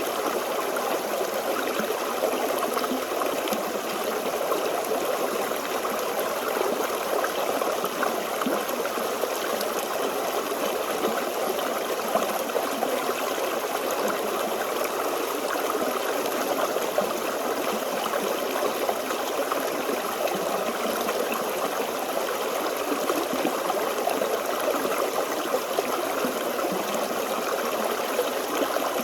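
Forest stream flowing steadily, water trickling and gurgling over rocks.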